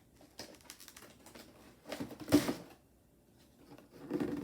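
Cardboard snack box being opened by hand: scattered clicks and rustles of the packaging, with one louder rustle about two seconds in.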